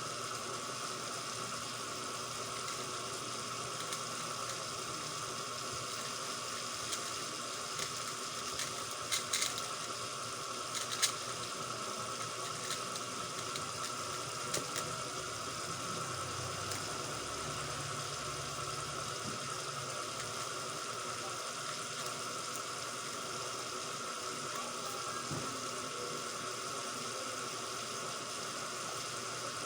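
Steady background hiss with a constant tone near 1 kHz from the recording setup, and a cluster of light, sharp clicks about a third of the way in from an X-Man Tornado V3M 3x3 speed cube being turned.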